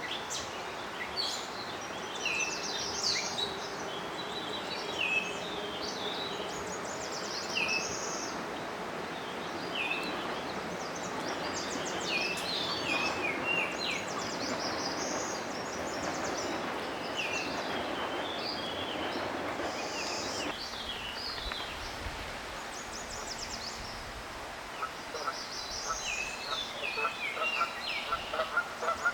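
Wild birds calling and singing outdoors: many short, varied high chirps over a steady background hiss. Near the end a run of lower, repeated calls begins and grows louder.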